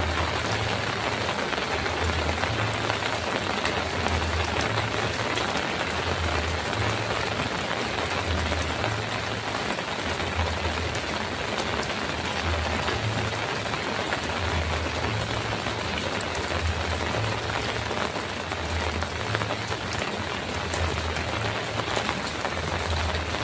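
Heavy rain pouring steadily on a metal roof, a dense, even hiss. Underneath it a low rumble swells and fades about once a second.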